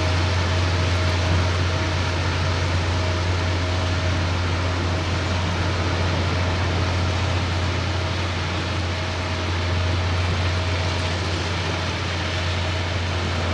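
Diesel engine of a railway ballast-levelling machine running steadily, a constant low drone with a thin steady whine above it and a broad mechanical rush.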